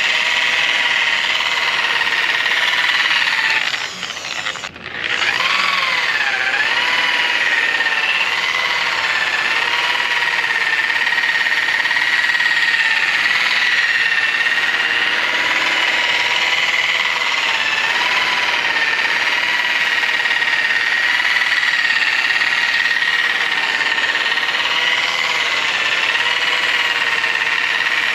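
Electric polishing machine buffing aluminum brightwork, a steady whine whose pitch wavers slightly as it is worked over the metal. About four to five seconds in it briefly slows and drops away, then spins back up.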